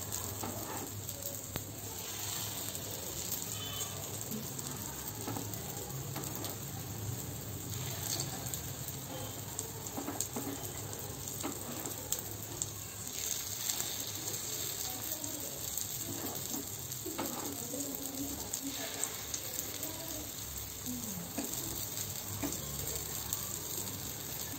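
Paddu batter sizzling in hot oil in the cavities of a paddu (appe) pan as more batter is ladled in: a steady frying hiss with a few light clicks.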